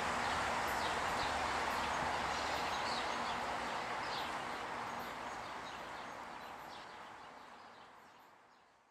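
Electric train running away down the line, its rumble and rail noise steadily fading, with birds chirping over it. The sound fades out near the end.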